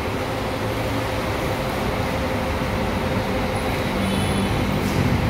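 Large diesel bus engine running steadily at close range, its low note strengthening a little near the end.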